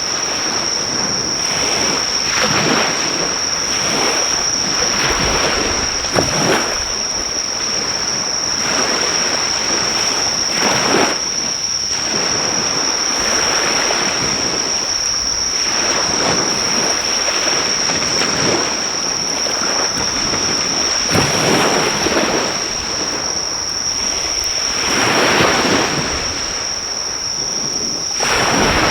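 Surf washing onto a shore in repeated swells every few seconds, with insects trilling in one steady high-pitched note over it. The crackle of a driftwood fire is faint beneath the waves.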